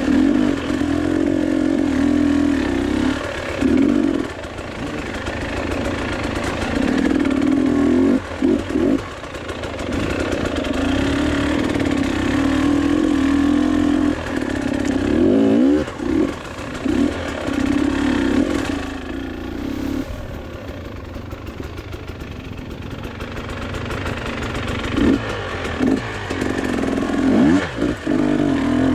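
Motorcycle engine running under load, the throttle opening and closing repeatedly so the pitch rises and falls, with several short drops where it eases off.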